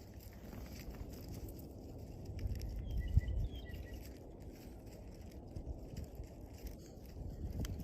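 Low wind rumble on the microphone, with a few faint, short, high bird chirps about two and a half seconds in and a brief thump soon after.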